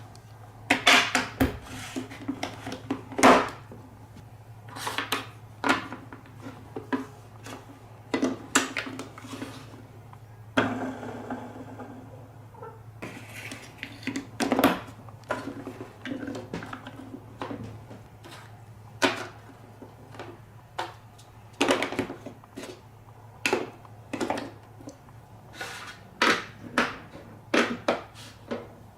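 Marbles rolling and clacking through a block marble run: a string of irregular sharp clicks and knocks as they hit and drop through the pieces, with a stretch of steadier rolling about a third of the way in.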